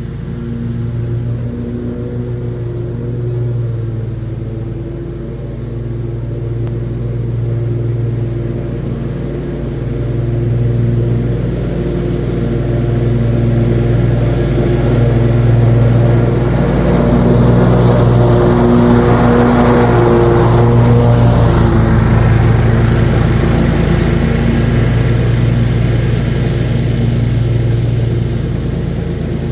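Commercial lawn mower engine running steadily under load while mowing, with a rushing noise that swells through the middle and eases off near the end.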